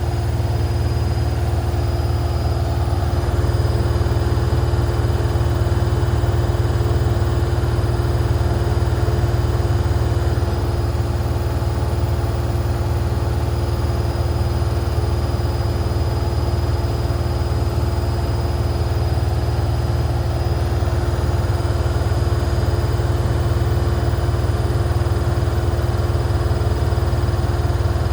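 Washing machine running at full speed: a steady, unchanging low rumble with a constant hum over it.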